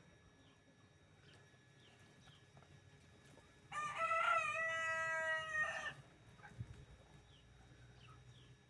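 A rooster crows once, a single loud cock-a-doodle-doo lasting about two seconds, starting a little under four seconds in.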